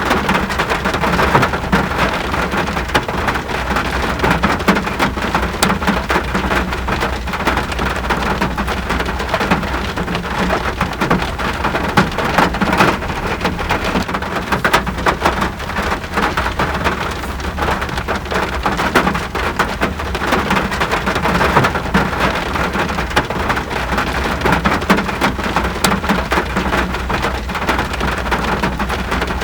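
Steady rain falling on surfaces: a dense, even hiss of rainfall with many individual drops ticking through it.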